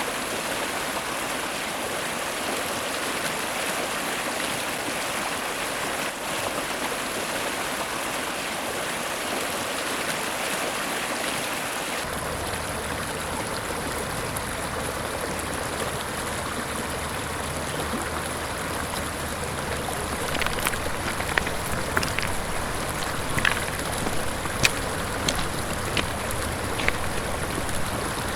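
Mountain river flowing over rocks: a steady rushing of water. About twelve seconds in the sound shifts to a fuller, deeper rush, and in the last third short sharp splashes or clicks come through on top of it.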